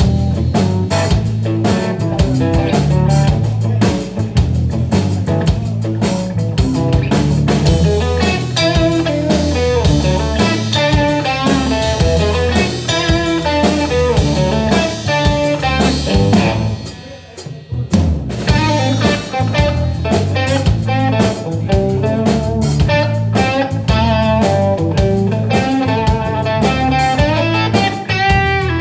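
Live blues trio playing an instrumental passage: guitar playing a busy melodic line over bass and drum kit. The band drops out briefly about two-thirds of the way through, then comes back in.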